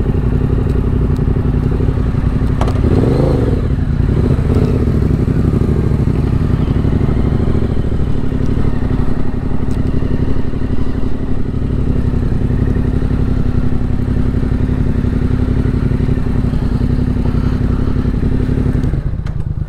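Yamaha 689 cc parallel-twin motorcycle engine running at steady, low revs, with a brief rise and fall in pitch about three seconds in. The steady engine note drops away near the end.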